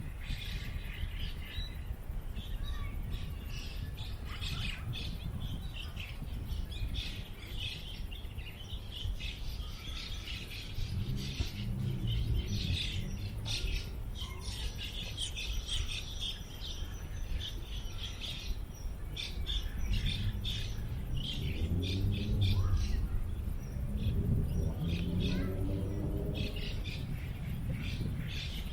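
Small birds chirping over and over over a steady low wind rumble on the microphone, with distant people's voices rising briefly around the middle and again for several seconds near the end.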